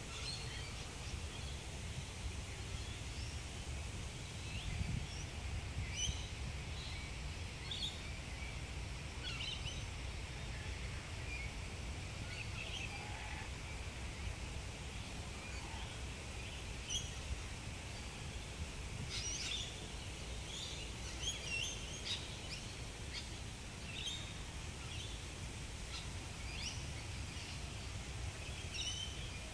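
Birds chirping in short, scattered high calls throughout, more often in the second half, over a steady low background rumble.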